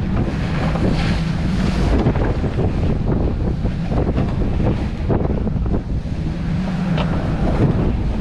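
Wind buffeting the microphone over the rush of waves and water along a sailboat's hull at sea, with a low hum that comes and goes underneath.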